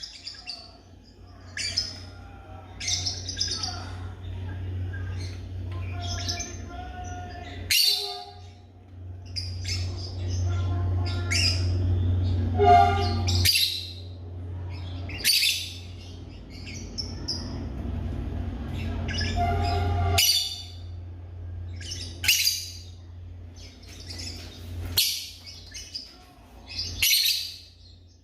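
African lovebirds calling: short, shrill chirps repeated every second or two, over a low steady hum.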